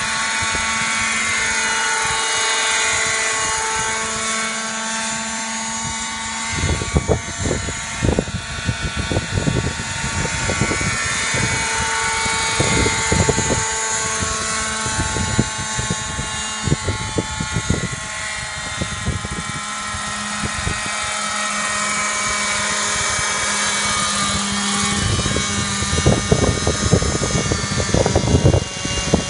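Robinson helicopter running steadily, its engine and rotor holding several steady tones that drift slowly in pitch. From about seven seconds in, irregular low buffeting rises and falls over it.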